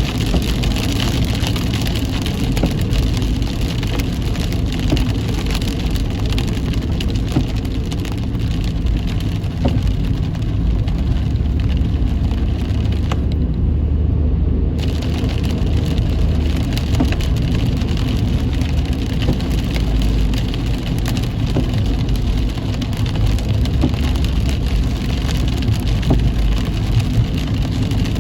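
Heavy rain beating on a moving car over the steady low rumble of the car and its tyres on a wet road. The high hiss of the rain drops away for about a second and a half about halfway through.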